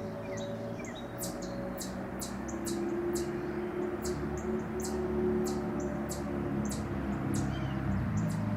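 A run of short, sharp high-pitched chip calls, about two a second, starting about a second in, with a few faint bird chirps and a low steady hum underneath.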